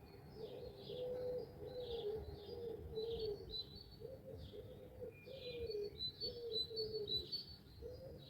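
Several birds singing at dawn: quick high chirps and twitters throughout, over a low cooing call repeated steadily without pause.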